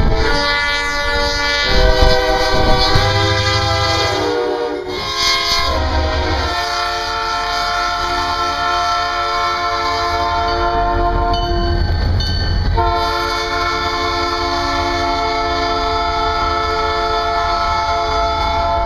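Diesel locomotive air horn blowing a chord of several steady notes in a series of long blasts, over the low rumble of the train. It cuts off abruptly at the very end.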